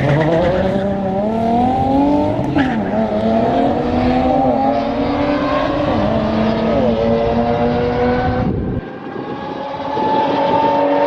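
Race car engine accelerating hard down a drag strip, its pitch climbing steadily and dipping briefly at each gear shift. About nine seconds in, the sound changes abruptly to another engine pulling up in pitch.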